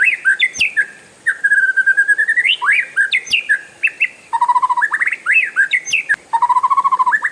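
Oriental magpie-robin (kacer) singing a long, loud song of fast rattling rolls of repeated notes, rising trills and sharp upward whistles, with brief breaks about a second in and about four seconds in.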